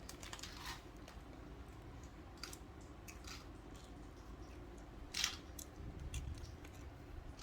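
Snack packaging being handled and food eaten: scattered small crinkles and clicks over a low hum, with one louder crackle about five seconds in.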